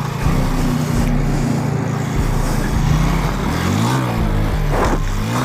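Suzuki GN125's single-cylinder four-stroke engine running under way, steady at first, then its pitch dips and swings up in the last couple of seconds as the gearbox drops into neutral on an upshift and the engine revs free. Wind rushes over the microphone throughout.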